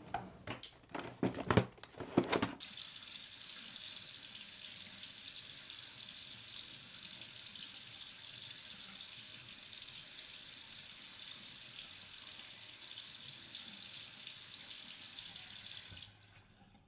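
A few sharp knocks and clatters, then a tap is turned on and water runs steadily into a sink for about thirteen seconds before it stops suddenly near the end.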